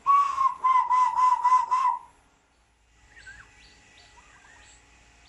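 Bird calls: a loud run of about six quick whistled notes on one pitch, then fainter, higher chirps with rising sweeps from about three seconds in.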